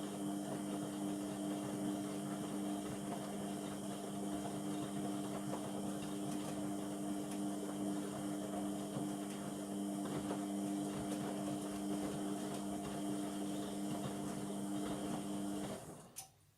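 Indesit MTWC71252WUK washing machine running with a steady hum. The hum cuts off abruptly near the end, followed by a faint click.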